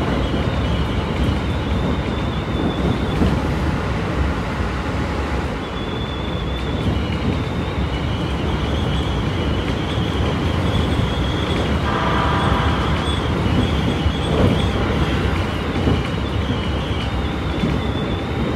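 Keikyu 1000 series stainless electric train heard from inside the car while running at speed: a steady loud rumble of wheels on rail and running noise. A thin high tone comes and goes over it, and a brief ringing tone passes about two-thirds of the way through.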